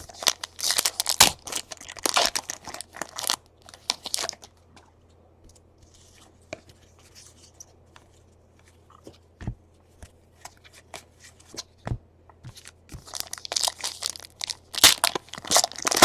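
2017 Donruss baseball card pack wrappers being torn open and crinkled, in two spells of rustling at the start and near the end, with scattered light clicks between.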